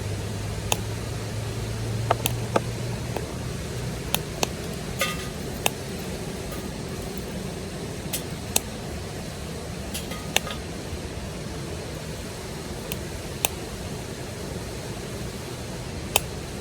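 Wood fire crackling in a Solo Stove Titan: sharp, irregular pops and snaps, one of them ringing briefly about five seconds in, over a steady rushing background.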